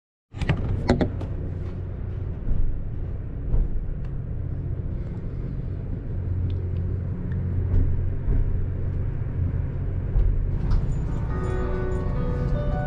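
Low, steady rumble of a train heard from inside the carriage as it pulls out of a station, with a few knocks in the first few seconds. Soft background music of plucked notes comes in near the end.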